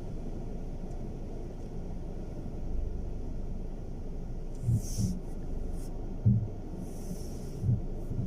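Low steady rumble of a car heard from inside the cabin, with a few short low thumps and two brief hissing bursts a couple of seconds apart.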